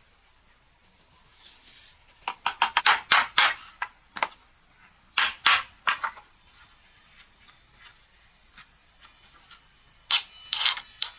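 Hammer strikes in quick runs and single blows, sharp and bright, as pieces of the shelves are knocked or nailed together. A steady high insect trill, like crickets, runs underneath.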